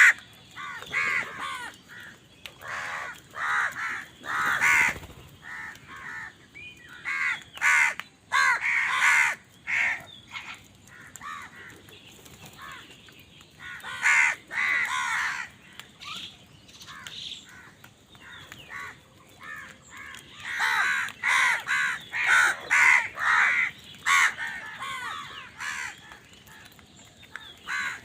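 Crows cawing in repeated bunches of calls, with quieter gaps of a few seconds between the busy stretches.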